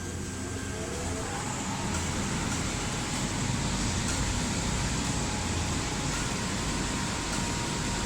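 CNC laser cutter running while it cuts hardboard: a steady mechanical whir and hiss, with a faint thin whine that sets in about a second in and holds.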